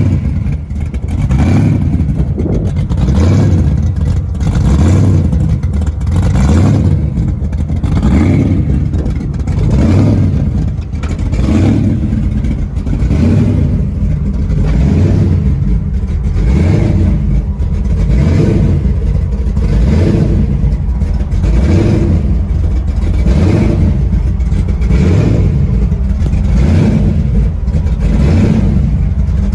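Truck engine running loudly, with a regular surge in the sound about once a second.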